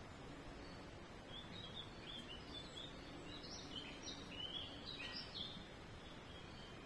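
A small bird chirping: a quick string of short, high chirps starting over a second in and stopping about a second before the end, over a faint steady outdoor hiss.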